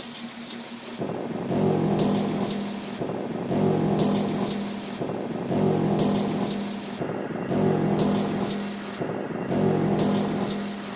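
Water running from a tap into a sink, looped and edited, with a low pitched hum that swells and fades about every two seconds.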